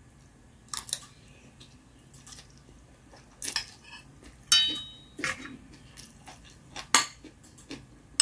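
Eating utensils clicking and knocking against bowls and dishes, a scatter of separate taps, with one clink about four and a half seconds in that rings briefly.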